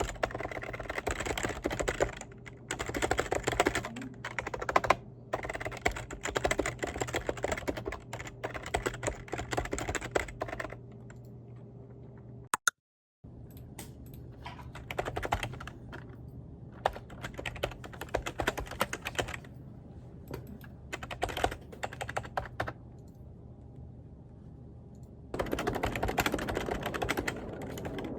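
Typing on a computer keyboard: rapid keystrokes in bursts with short pauses, briefly cutting out a little before halfway and getting louder near the end.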